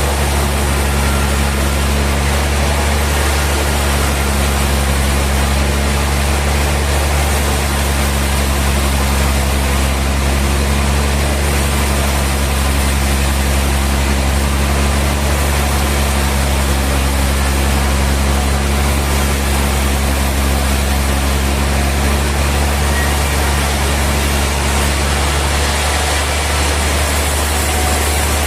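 Sawmill machinery running steadily with a deep, continuous hum; one of its higher tones drops out near the end.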